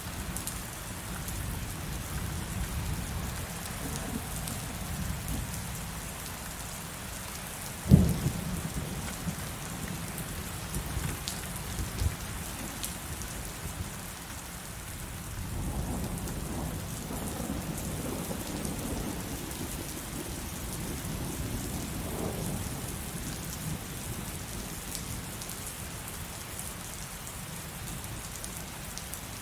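Heavy rain falling steadily, with a sharp clap of thunder about eight seconds in that rolls on for a few seconds, and a second low rumble of thunder swelling and fading in the middle stretch.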